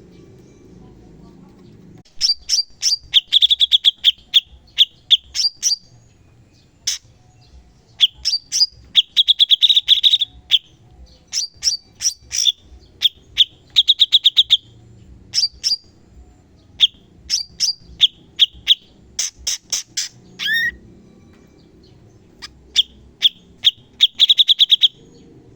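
Cucak cungkok (brown-cheeked bulbul) singing loud bursts of sharp, rapid-fire notes and short high trills, the fast 'shots' prized in song-tutor recordings. The song starts about two seconds in and goes on in phrases with brief pauses.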